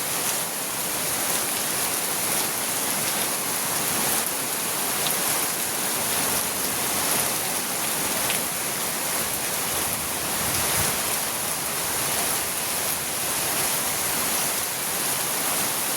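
Heavy rain falling steadily, an even hiss of drops on surfaces with no break or change.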